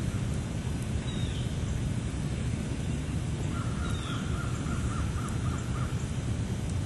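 Campfire burning with a steady low rumble and faint crackles, while a bird calls: a rapid run of repeated notes for a couple of seconds midway, and a few short falling chirps, one about a second in and one about four seconds in.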